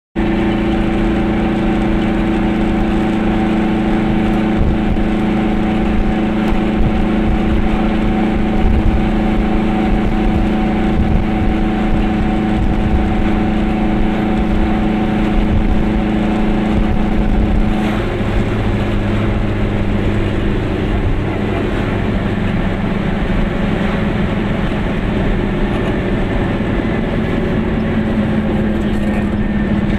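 A Goggomobil's air-cooled two-stroke twin engine running steadily as the little car drives along, heard from inside the cabin with road noise under it. The engine note changes about two-thirds of the way through.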